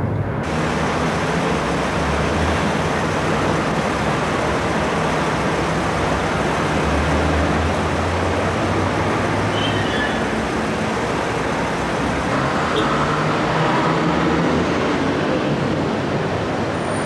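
Steady vehicle running noise: an even rushing rumble with a low hum that swells and fades, starting abruptly just after a cut.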